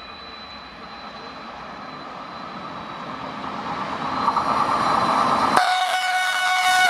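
A train approaching through a station, its running noise growing steadily louder. About two-thirds of the way in, its horn sounds in one long, steady blast.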